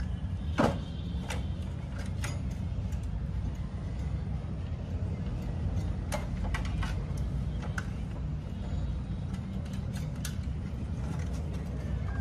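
Scattered sharp clicks and light knocks of parts and tools being handled, the loudest about half a second in, over a steady low rumble.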